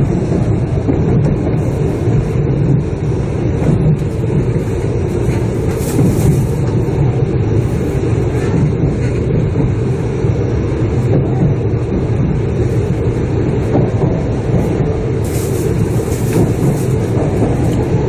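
Steady running noise of a Shinkansen train heard from inside the passenger cabin: an even low rumble of wheels and track with a light hiss and occasional faint clicks, as the train nears its terminus.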